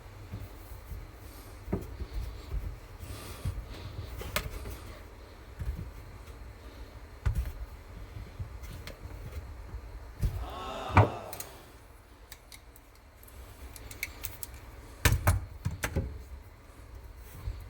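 Scattered knocks, clicks and light rattles of hand tools and parts being handled during work on a dishwasher drain and air gap, with a brief pitched squeak near the middle and a cluster of knocks near the end.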